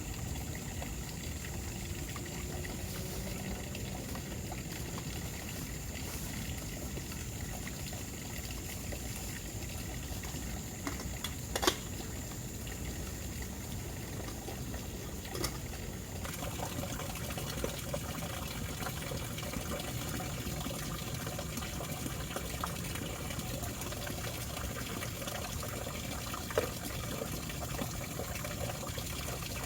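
Water running and splashing, with a steady high tone throughout and a few sharp knocks, the loudest about twelve seconds in.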